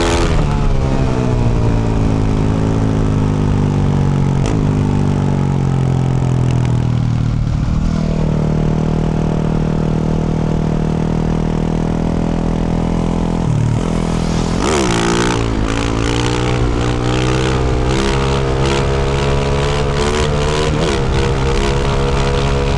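2024 Yamaha YZ450F's single-cylinder four-stroke engine through a Yoshimura RS-12 exhaust while riding. The revs fall over the first several seconds, then hold steady. About fourteen seconds in they drop briefly and pick up again, and the engine then runs steadily with frequent clicks and knocks from the terrain.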